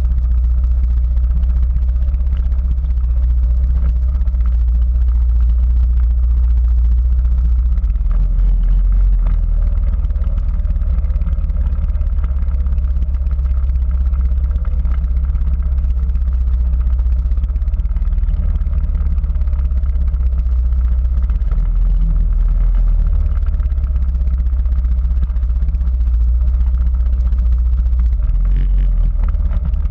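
Quad bike engine running with a heavy, steady low rumble that shifts in pitch a few times.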